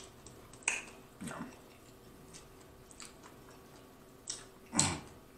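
Close-miked chewing of crispy fried chicken: scattered wet mouth clicks and crunches, with a louder one near the end.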